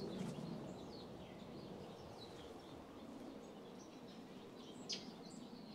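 Small birds chirping here and there over a faint steady outdoor background, with one sharper, louder chirp about five seconds in.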